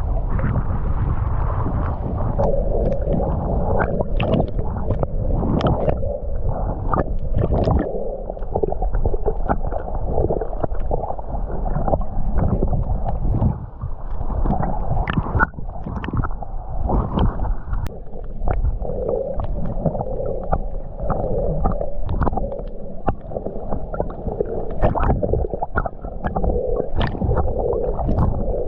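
Muffled water from a camera held underwater, gurgling and sloshing, with scattered sharp clicks and taps throughout.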